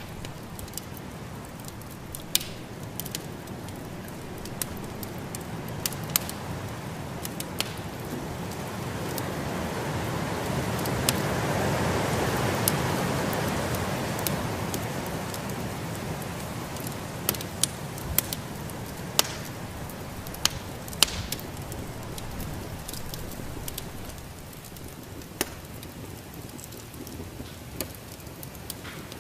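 Wood fire crackling in a fireplace, with sharp pops scattered irregularly, over a steady rushing of snowstorm wind that swells for a few seconds in the middle and then eases.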